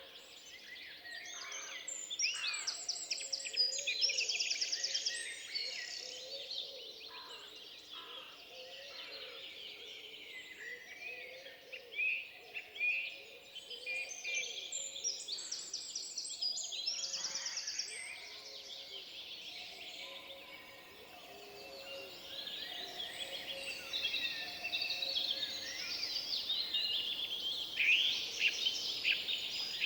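Several songbirds singing in a forest: overlapping high chirps and fast trills, thickest in a few bursts.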